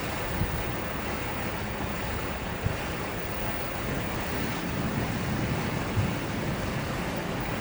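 Storm wind buffeting the microphone over a steady rush of wind and sea, with a few sharper gusts.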